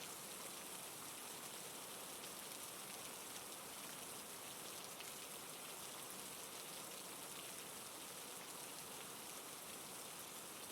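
Steady rain falling, a soft even patter of drops on a surface.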